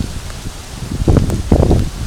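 Gusty wind buffeting the microphone in 30-40 mph storm winds, with irregular low rumbling gusts that are strongest from about a second in.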